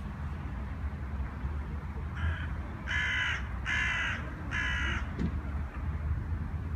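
A bird giving four short calls under a second apart, the first fainter, over a steady low rumble.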